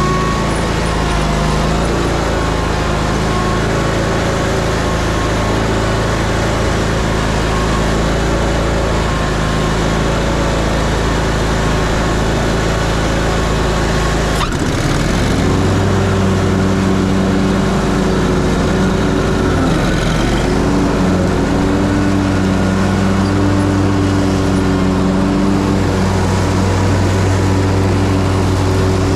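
Ferris Z3X zero-turn mower's 37 hp engine running steadily under cutting load with its 61-inch deck engaged. The sound breaks briefly about halfway through, then carries on at a slightly different pitch with a short dip a few seconds later.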